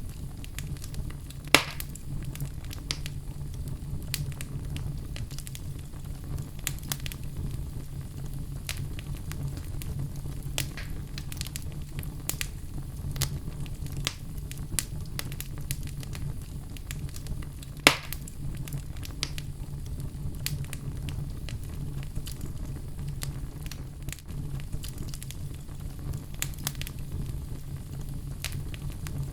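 Wood fire burning in a fireplace: a steady low rumble and hiss with frequent small crackles, and two louder sharp pops, one about a second and a half in and one about eighteen seconds in.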